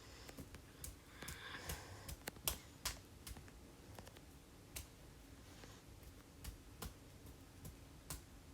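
Faint, scattered sharp clicks in a small room, irregularly spaced at about one or two a second, with a brief soft rustle about a second in.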